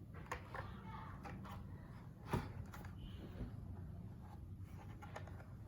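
A few light clicks and taps of hands handling a packaged die-cast toy car, the sharpest about two seconds in, over a low steady hum.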